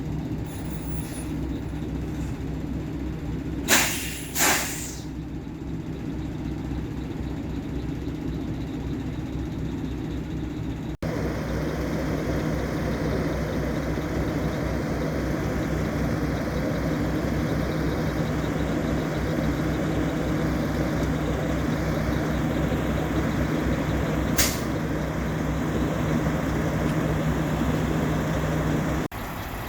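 Semi-truck engine running steadily, heard from inside the cab while driving, with two short, loud hisses a few seconds in and another brief one near the end. The sound steps up and gets louder at a cut about a third of the way through.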